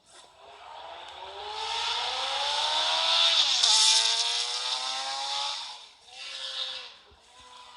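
Engine-like revving sound whose pitch climbs steadily for a few seconds, drops sharply about three and a half seconds in and climbs again, before cutting out briefly near six seconds.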